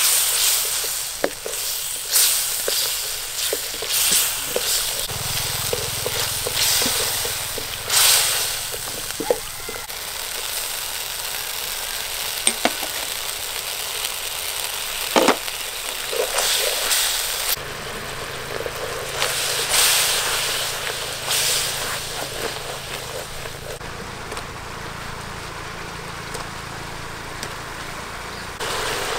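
Garlic, spring onion and chili sauce sizzling in a wok while a wooden spatula stirs it, scraping and knocking against the pan in irregular strokes.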